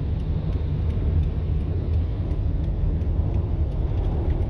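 Steady low road and engine rumble heard inside the cabin of a vehicle travelling at highway speed.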